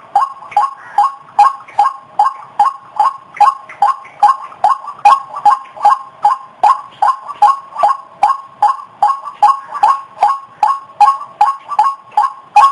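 White-breasted waterhen calling a monotonous, rapidly repeated 'ruak-ruak', about two to three short calls a second without a break. This is the bird's territorial call as used in lure recordings.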